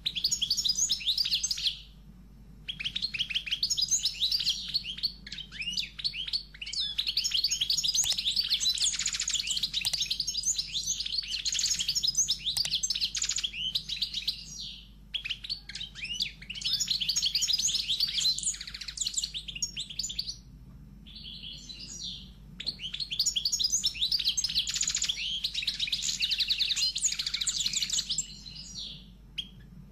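Small birds chirping and twittering in dense, fast runs of high notes, breaking off for short pauses every several seconds.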